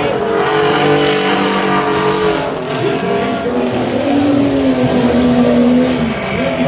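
Several race trucks' engines running hard in a Baja heat, their overlapping engine notes rising and falling as they rev.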